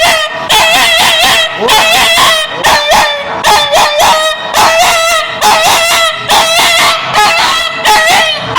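A dog crying in loud, high-pitched yelps, one short rising-and-falling cry after another, about two a second.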